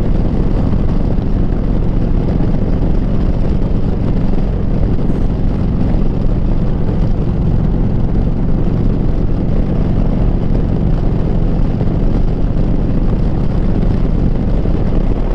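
Harley-Davidson V-twin with a Rinehart 2-into-1 exhaust running at a steady cruise, its exhaust note holding an even pitch.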